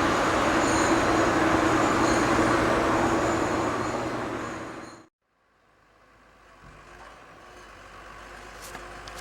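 Diesel engine of a log forwarder running loud and close with a steady hum. It cuts off abruptly about five seconds in, then a fainter machine engine slowly grows louder.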